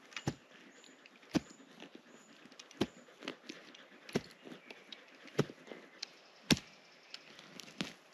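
Wood being chopped with a blade: seven sharp strikes at a steady pace, about one every second and a half.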